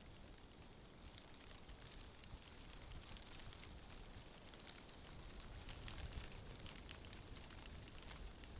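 Faint wind rustling through tree leaves: a steady hiss full of fine crackling, over a low rumble, growing slightly louder about halfway through.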